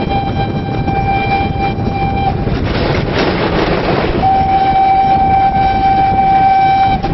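Steam locomotive whistle blowing two long, steady single-pitched blasts, separated by a gap of about two seconds, over the continuous rumble of a train on the move.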